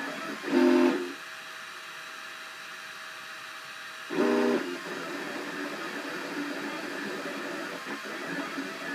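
Cubify 3D printer running a print: its stepper motors give a steady mechanical whine, broken twice by a short, louder pitched squeal, about half a second in and again about four seconds in, as the print head makes quicker moves.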